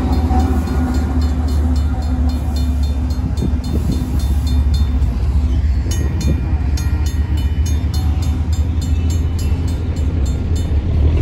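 Union Pacific diesel locomotive rumbling past a grade crossing while the crossing's Safetran mechanical bell clangs steadily, about three strikes a second. The bell strikes stop near the end.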